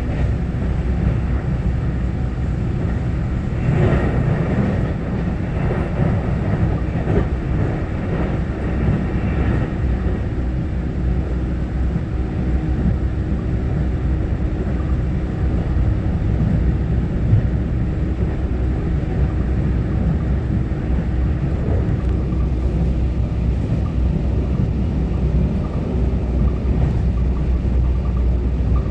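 Steady low rumble of an EMU900-series electric multiple unit commuter train running along the line, heard from inside the car. A faint thin whine joins in about three quarters of the way through.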